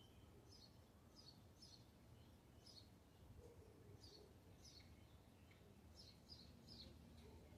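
Faint birdsong: short, high chirps that sweep downward, repeated in quick runs of two or three, over a low steady rumble.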